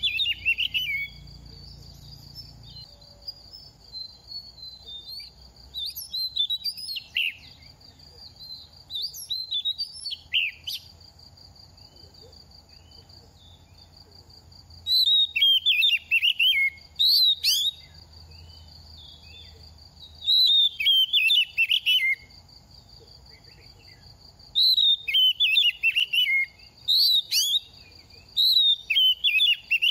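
Oriental magpie-robin singing in repeated bursts of varied, quick whistled phrases with pauses between them. A steady high-pitched drone runs behind much of it.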